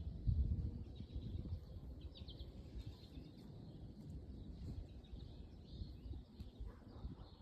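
Outdoor background: an uneven low rumble, loudest just after the start, with faint high bird chirps now and then.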